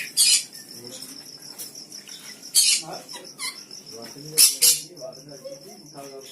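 Steady high-pitched chirring of a cricket, with about five short, sharp bird calls ringing out over it.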